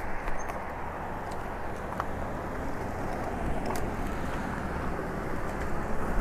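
Steady rushing wind and tyre noise from a Lectric step-through e-bike under way, with a few light clicks.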